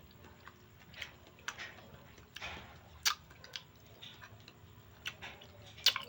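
A person chewing and smacking while eating ripe mango: irregular sharp wet clicks and lip smacks, the loudest about three seconds in and near the end.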